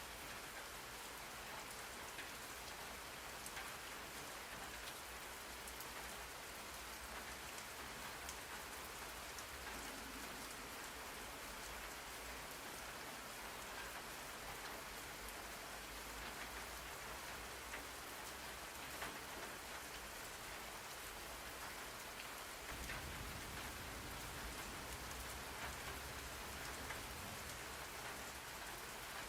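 Steady rain falling, an even hiss with scattered individual drop ticks. A low rumble in the bass grows a little louder about three-quarters of the way through.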